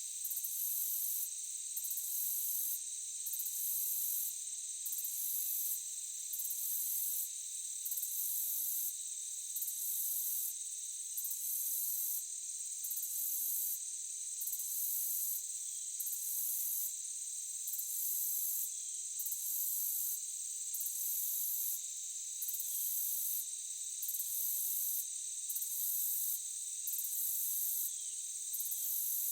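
Night insect chorus, crickets or similar: a steady high-pitched trill, with a second, higher insect call pulsing on and off in a regular rhythm of about one pulse every second and a half.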